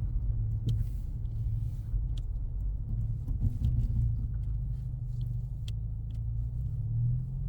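Cabin rumble of a 2024 Mustang EcoBoost, with its turbocharged four-cylinder, driving on a rough snow-covered road. It is a steady low drone of engine and tyres, with a few faint clicks.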